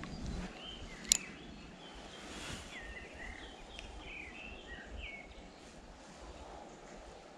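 Small birds chirping in short, quick rising and falling notes, over a low rumble, with one sharp click about a second in.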